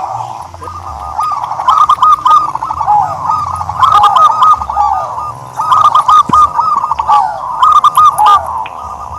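Turtledove cooing: about four phrases of quick arching notes, one roughly every two seconds.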